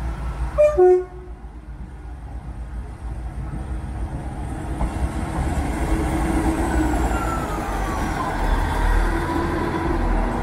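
Class 158 diesel multiple unit giving one short horn blast about half a second in. Its diesel engine and wheels then grow steadily louder as it runs across the level crossing, with a falling whine a few seconds before the end.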